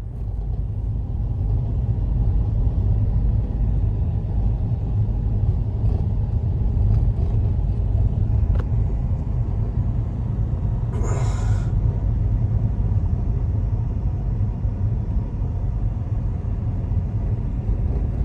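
Blizzard wind buffeting the microphone: a loud, steady low rumble, with a short hiss about eleven seconds in.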